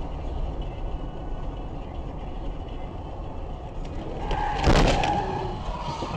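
Vehicle road noise from a dashcam, then a sudden loud collision bang about four and a half seconds in, with a steady pitched tone sounding around it and fading near the end.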